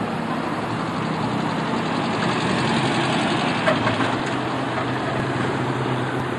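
A car engine running nearby over street traffic noise, growing louder through the middle, with a short knock nearly four seconds in.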